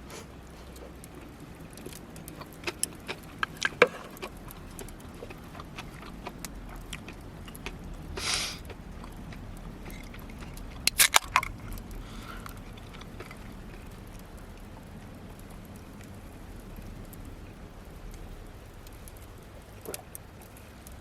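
Sharp clinks and knocks of small hard objects being handled, in two clusters about three seconds in and about eleven seconds in, with a short hiss between them and one more click near the end.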